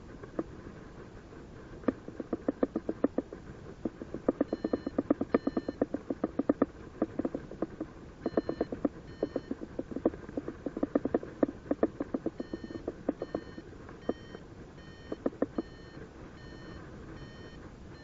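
Paragliding variometer beeping in fast pulses, several a second, in bursts with short gaps: the climb tone, the sign of the glider rising in lift. A second, higher and thinner beep repeats about twice a second through the second half, over a steady rush of air noise.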